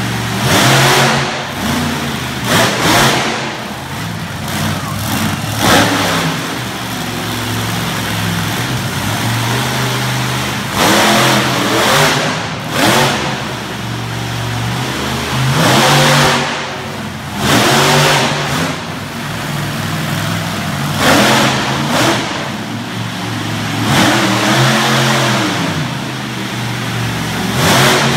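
Monster truck engine revving hard in repeated bursts, the pitch rising and falling each time, a dozen or so surges spaced one to several seconds apart, dropping back to a lower steady run between them.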